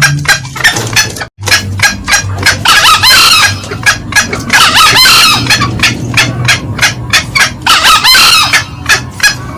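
Green junglefowl calling loudly: a rapid run of short cackling notes throughout, with three louder call bouts about two and a half seconds apart. The sound drops out briefly about a second in.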